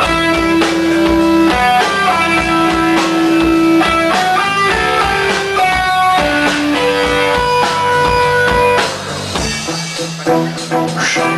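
Instrumental passage of a rock song: a guitar melody of held notes over drums and bass. About nine seconds in, the drums drop out and the music thins.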